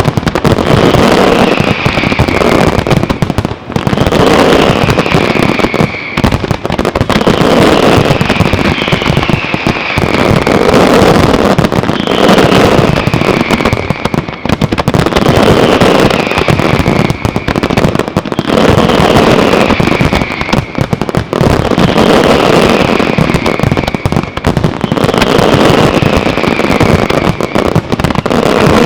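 Loud, dense fireworks barrage: a continuous rattle of bangs and crackles, with a falling whistle repeating about every two seconds.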